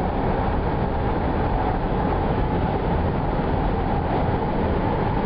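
Steady road noise inside a moving car's cabin: tyre and engine drone at an even pitch.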